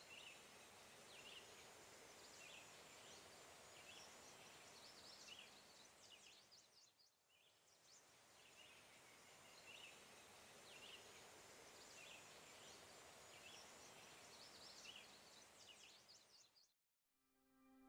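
Faint outdoor background hiss with a small bird's short, high chirps repeating about once or twice a second; it fades out briefly near the middle and comes back.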